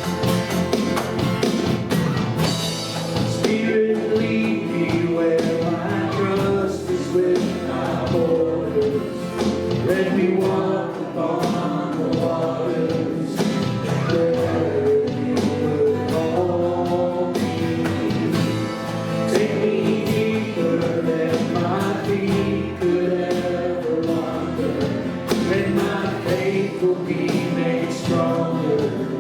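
Church worship music: a live band with guitar accompanying voices singing a worship song.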